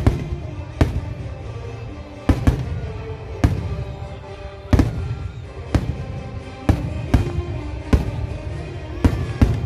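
Aerial firework shells bursting in a display: about a dozen sharp bangs, roughly one a second and sometimes two close together, over music.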